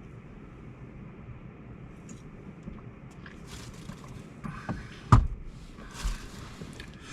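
Steady rush of river water, with a few handling noises and one sharp click a little past five seconds in.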